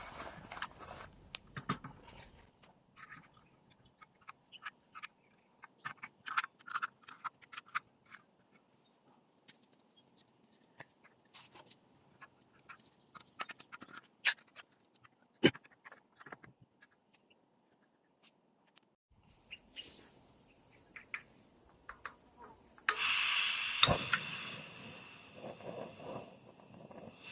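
Scattered light clicks and taps of small objects being handled. Near the end, a steady chorus of chirping insects comes in suddenly.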